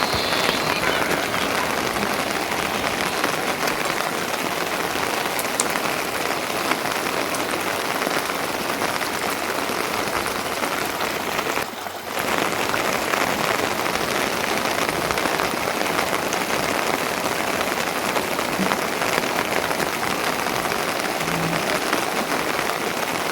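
Steady rain falling, a dense even patter, with a brief drop-out about halfway through.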